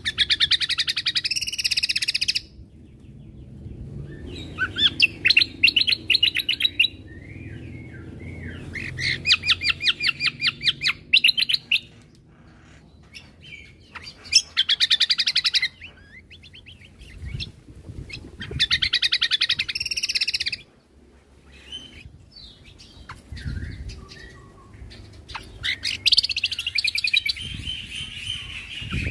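Cucak kombo (kecial kombo) singing in its rapid 'tembakan' bursts: loud runs of fast, evenly repeated trilled notes, each lasting about two seconds and coming roughly every four seconds, with softer chirps in between.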